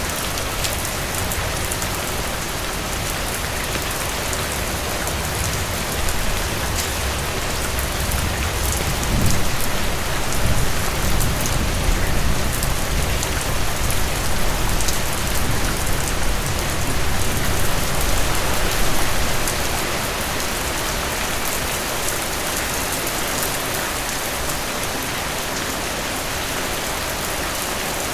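Heavy rain falling steadily as a dense hiss, with scattered sharp drop ticks. A deep low rumble swells up through the middle and dies away.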